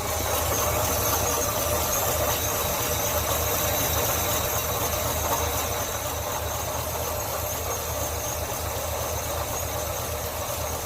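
1948 Ford F5 bus engine running steadily, kept going on a weak but steady flow of fuel drawn from its own tank.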